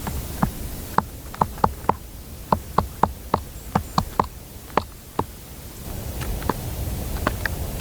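Woodpecker pecking hard at wood: a series of sharp, separate knocks at an irregular two to four a second, like blows of a hatchet splitting firewood. The pecking pauses about five seconds in and resumes more faintly near the end, over a low rumble of wind.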